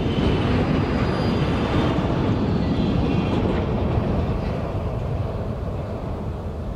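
Freight train rolling past on the rails, a dense rumble of wheels and wagons that slowly fades over the second half.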